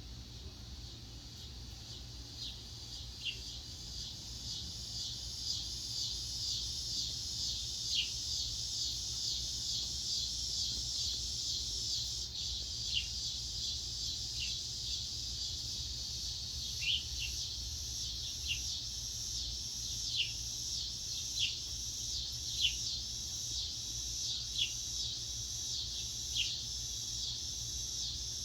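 Steady, high insect chorus with a fine rapid pulse, growing louder over the first few seconds. Over it a bird gives short calls that slide downward, repeated every second or two.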